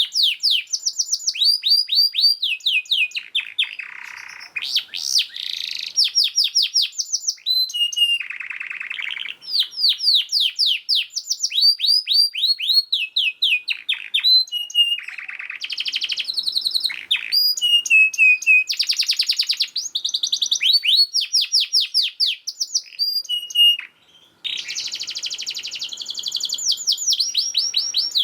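Domestic canary singing a fast, dense song: long trills of rapidly repeated downward-sweeping notes alternating with buzzy rolls, with a short break about 24 seconds in.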